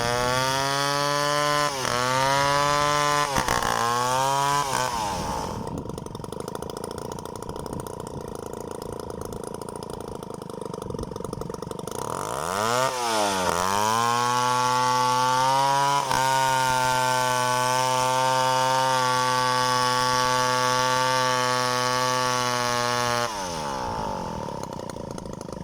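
Chainsaw engine running at high throttle, with its pitch dipping twice under load. About five seconds in it drops back to a quieter idle. It revs up again around thirteen seconds, runs steadily for about ten seconds, then eases off near the end.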